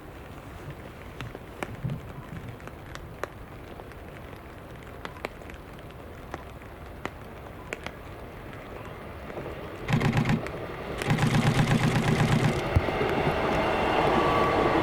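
Quiet outdoor ambience with scattered faint ticks, then a train arrives about ten seconds in and its loud, rhythmic rumble runs on to the end.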